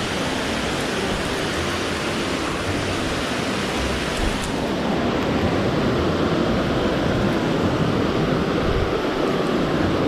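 Water of a mountain stream pouring over a check dam: a loud, steady rush that swells slightly about halfway through.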